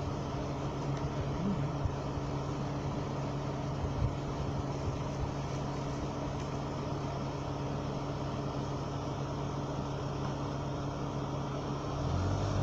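A vehicle's engine idling steadily, heard from inside the cab. Near the end the engine note drops lower and grows louder.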